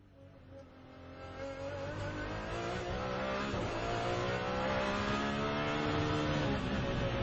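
Ferrari 599XX's V12 engine accelerating hard on track, heard onboard. It fades in over the first couple of seconds, its pitch climbs steadily through a gear, and it dips briefly near the end at an upshift.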